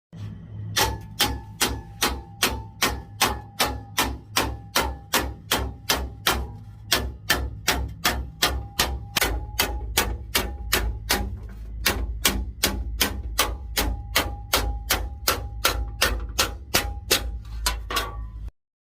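Sheet metal for a motorcycle fender being shaped with a hammer: a long run of evenly spaced strikes, about three a second, each with a short metallic ring, over a steady low hum. It cuts off abruptly near the end.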